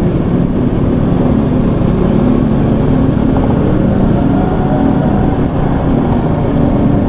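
Steady vehicle engine hum with traffic and road noise while riding slowly through jammed city traffic.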